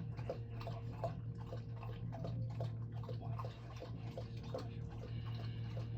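Low, steady drone of a vacuum cleaner, with a run of light ticks, about two or three a second.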